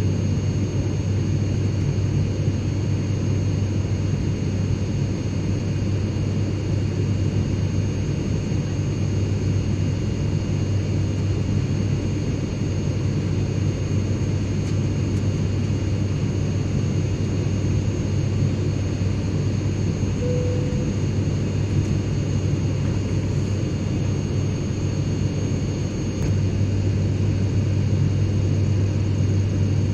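Airplane cabin noise: a steady low rumble with a few faint steady high tones above it, growing slightly louder a few seconds before the end.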